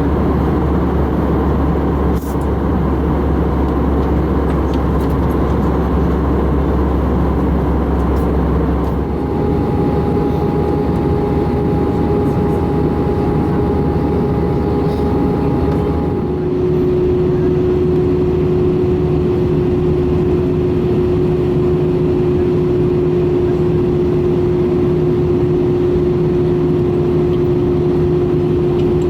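Steady jet engine noise inside the cabin of an Air France Airbus A318, a constant rumble with a whine that shifts to a new pitch twice, at about nine seconds and again at about sixteen seconds.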